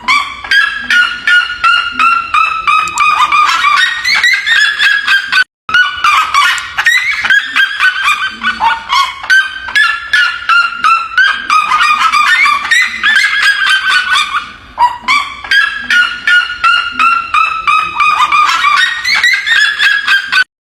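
Red-legged seriema calling: long runs of loud, rapid notes, each phrase sliding down in pitch, with a brief break about five and a half seconds in.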